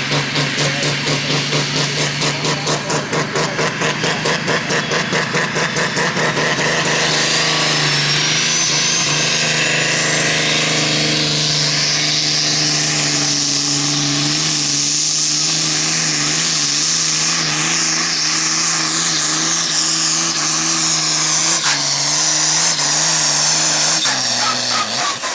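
Super Sport class pulling tractor's engine under full load during a pull. It pulses rapidly at first, then runs steady with a whistle rising in pitch as the revs climb, and drops off near the end.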